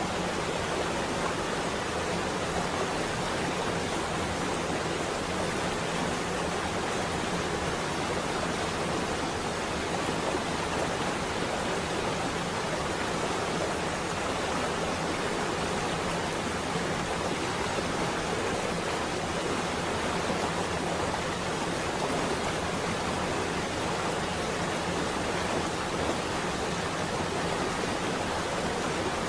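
Rain on a window, a steady, even hiss with no thunder.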